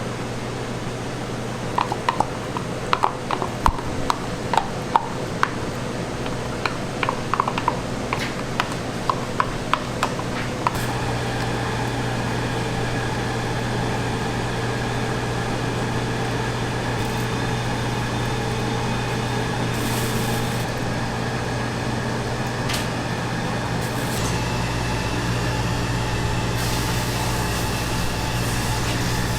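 Light clinks and taps of kitchen utensils over a steady electrical hum, then a kitchen appliance's motor starts about eleven seconds in and runs steadily with a droning tone.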